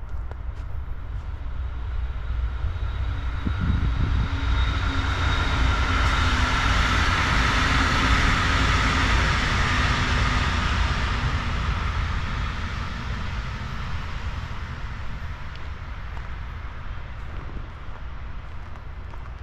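A passing vehicle's noise swells over several seconds, loudest around the middle, then slowly fades away.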